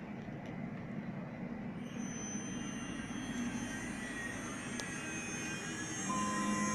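CNC milling-engraving router running under test. A high steady whine, typical of its 2.2 kW spindle, comes in about two seconds in over a low machine hum. Further steady motor tones join near the end.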